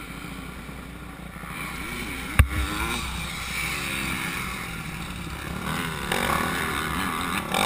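Motocross bike engine revving up and down as it rides, the note rising and falling and growing louder toward the end. A single sharp knock about two and a half seconds in is the loudest sound.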